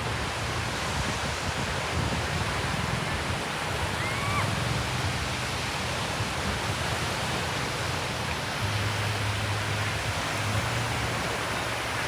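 Steady rush of surf washing onto a beach, with one short rising chirp about four seconds in.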